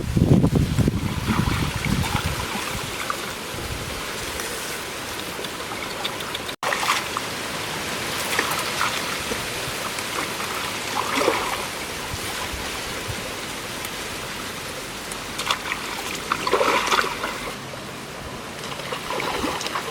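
Running water trickling steadily, with a few louder splashes.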